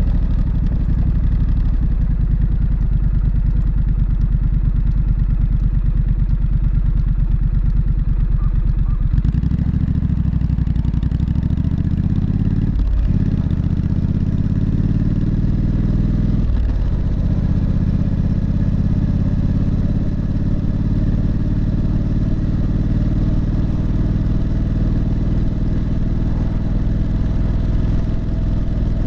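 Triumph Street Scrambler's 900 cc parallel-twin exhaust running at low revs, then pulling away: the revs rise, dip briefly twice at gear changes, and settle into a steady cruise.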